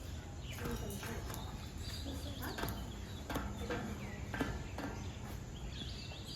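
Birds chirping in short high calls, amid scattered clicks and knocks over a steady low rumble.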